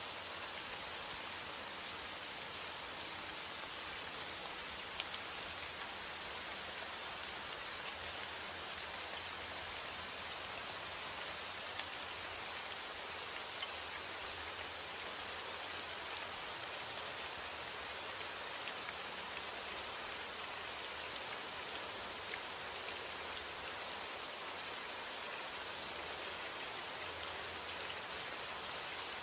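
Steady heavy rain with individual drops ticking on a surface.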